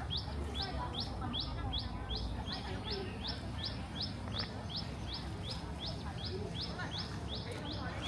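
A bird calling one short, high, rising note over and over, evenly, about two or three times a second, over a steady low background rumble.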